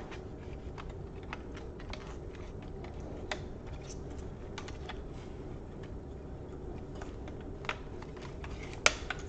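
Scattered small clicks and taps of laptop parts being handled as a replacement motherboard is seated in the casing, with one sharper click near the end.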